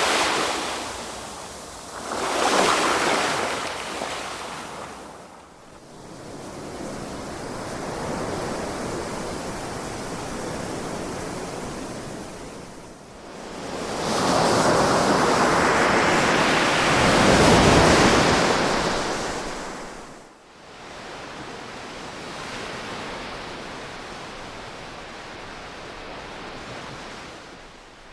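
Ocean waves surging and washing on a shore in slow, uneven swells. Two surges come in the first few seconds, and one bigger wave builds and breaks about halfway through before easing back to a softer wash.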